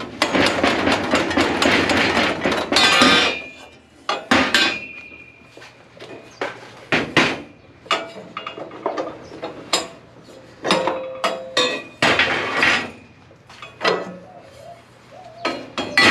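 Metal tools and parts being worked by hand: a fast run of clicking for about three seconds, then a series of separate metallic clanks and knocks, some ringing briefly.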